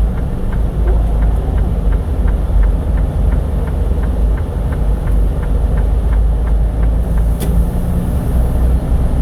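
Semi truck's diesel engine running at low speed, with a steady faint ticking about three times a second and one sharp click about seven seconds in.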